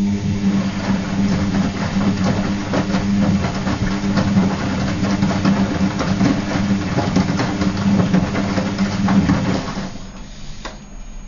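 Gala GL605T washing machine running: a steady motor hum with many irregular knocks and slaps from the wet load tumbling. The action starts at once, stops about ten seconds in, and a single click follows.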